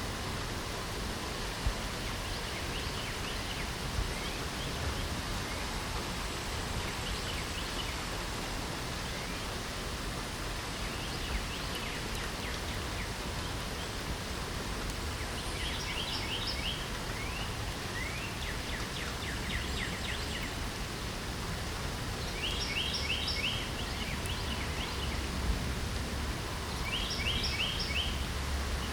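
Steady rain hiss with songbirds singing short, rapid trilled phrases over it; the phrases come faintly at first and stand out clearly four times in the second half, with an occasional single drip-like tick.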